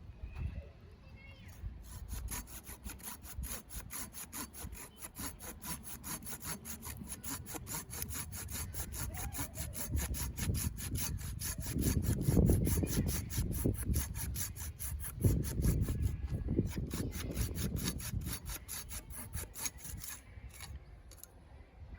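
Hand saw cutting through wood in steady back-and-forth strokes, about four a second, stopping near the end.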